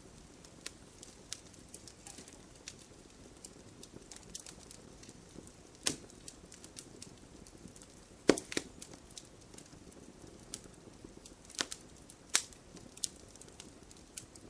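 Fireplace fire crackling: scattered sharp pops and snaps over a faint low rumble, with the loudest pop about eight seconds in and a few strong ones soon after.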